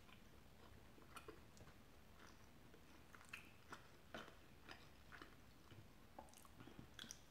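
Faint close-up chewing of garlic naan with chicken tikka masala, with scattered soft wet clicks of the mouth that come more often in the second half.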